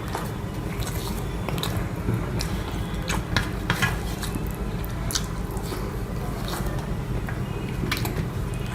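Close-up eating sounds of rice and egg curry: wet squishes and smacks of mixing and chewing, with scattered short clicks, over a steady low hum.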